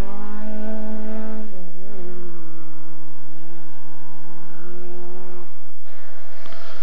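Rally car engine at high revs pulling away along a gravel forest stage: the note climbs, dips briefly about two seconds in, holds steady, then fades out near the end.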